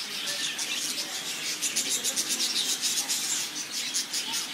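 A flock of budgerigars chirping and chattering: a dense, continuous stream of short high chirps from many birds at once.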